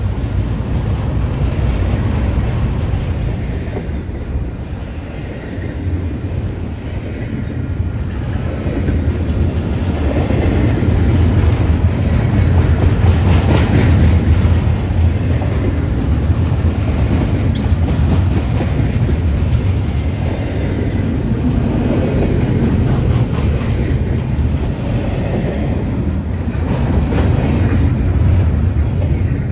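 Cars of a long Union Pacific intermodal freight train rolling past: a steady loud rumble of wheels on rail with occasional clacks.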